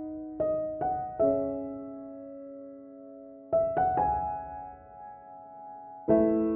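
Slow, gentle piano background music: single notes and chords struck a few at a time, each left to ring and fade before the next.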